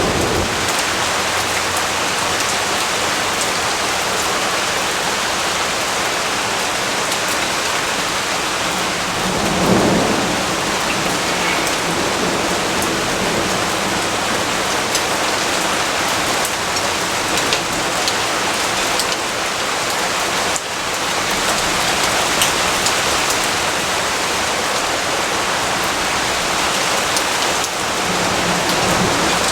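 Steady heavy rain: a dense, even hiss with scattered drop ticks. A low rumble of thunder swells briefly about a third of the way in.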